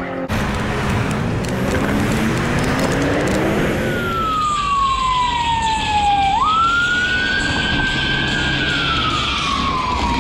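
Emergency vehicle siren wailing: its pitch slides slowly down, jumps back up a little past halfway, holds, then slides down again, over a steady rushing background noise.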